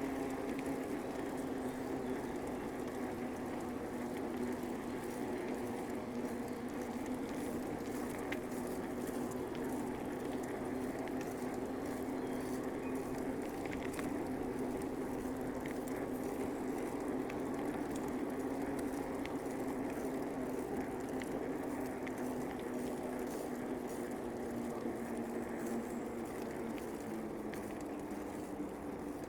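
Bicycle rolling along a paved path: a steady tyre hum over a crackly rolling noise, with a few light clicks. The hum sinks slightly in pitch near the end.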